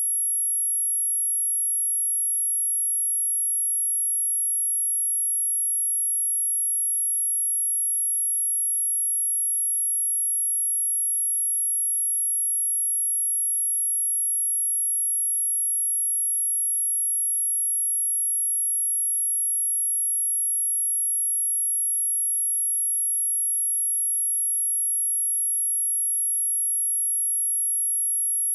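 Steady pure sine-wave test tone at 11225 Hz, a single very high-pitched whistle held at constant loudness, played to test a speaker and clear it of water and dust.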